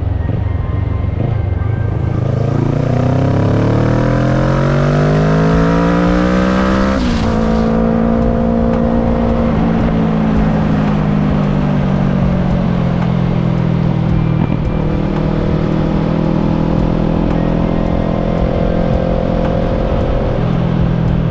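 Kawasaki ER-6n's 649 cc parallel-twin engine heard from onboard, pulling up through the revs under acceleration, then dropping sharply in pitch with an upshift about seven seconds in and carrying on at a fairly steady cruise. A steady rush of wind and road noise runs underneath.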